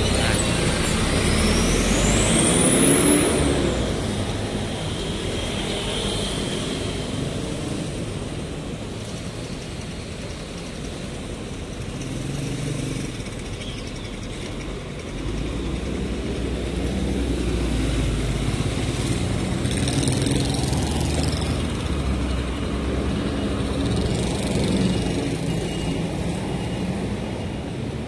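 A city bus's engine running with road rumble, its pitch climbing and falling away about two to four seconds in as it pulls away, then steady running noise.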